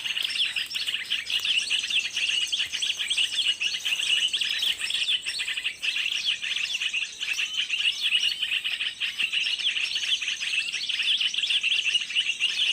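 Small birds chirping with rapid, high-pitched calls, many notes a second, running on without a break.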